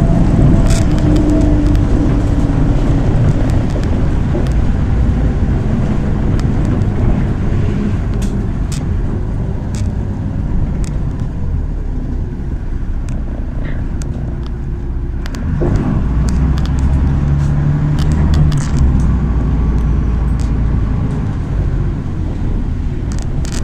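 MAZ 103 city bus on the move, heard from inside: steady engine and road noise with scattered light rattles and clicks. The engine note strengthens for a few seconds about two-thirds of the way through.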